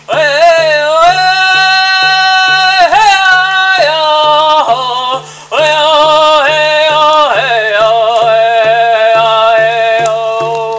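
A man singing a Native American spiritual song in long, held, high notes that slide between pitches, with a short break about five seconds in. He keeps a steady, even drumbeat on a hand-played drum beneath the singing.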